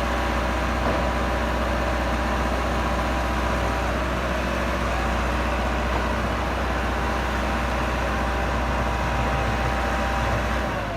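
Massey Ferguson 385 tractor's four-cylinder diesel engine running steadily, with a faint thin whine above the low drone.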